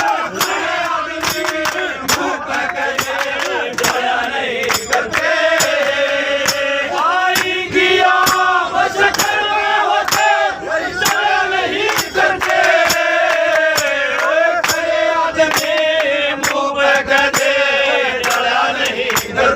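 Instrumental interlude of a Haryanvi ragni folk performance: a wavering melody over a held drone, punctuated by frequent sharp percussion strokes.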